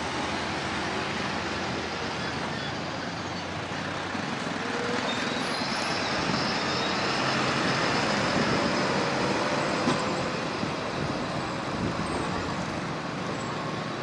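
Roadside highway traffic noise: a heavy vehicle passing close by, its engine and tyre roar swelling to a peak about eight seconds in and then easing off.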